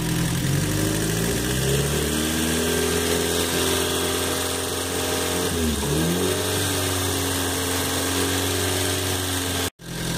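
Volkswagen AP four-cylinder carbureted engine revved up from idle and held at raised speed, with a quick drop and pick-up of revs about six seconds in and a brief dropout near the end. It is running on a mix of gasoline and hydrogen fed into the carburettor base from a water-electrolysis generator.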